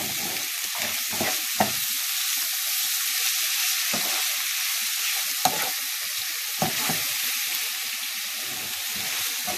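French-style green beans and bacon sizzling steadily in a frying pan, with a utensil clicking and scraping against the pan now and then as the mixture is stirred.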